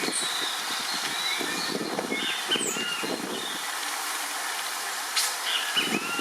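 Wild birds chirping with many short, varied calls over a steady low background rumble, with one sharp knock about five seconds in.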